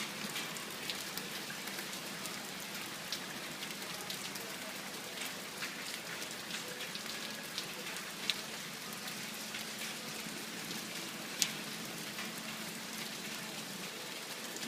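Heavy rain pouring down in a steady hiss, with scattered sharp drips and splashes standing out, a couple of louder ones near the middle and about three-quarters through.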